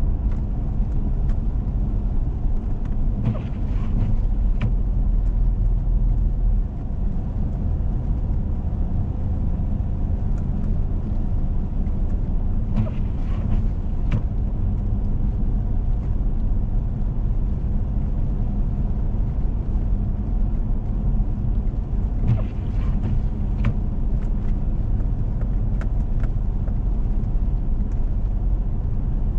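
Four-wheel-drive vehicle driving on a snowy road: steady low engine and tyre rumble, with three brief hissing swishes about ten seconds apart.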